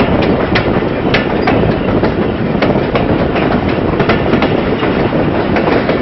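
Moving passenger train heard from a coach window: a steady loud rumble and rush of air, with the wheels clattering in irregular clicks and clacks over the track.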